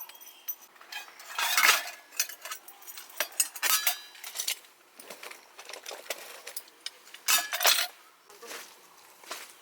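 Metal camping gear being handled: irregular clinks, rattles and rustles, with the loudest clatters about one and a half seconds in and again near the end.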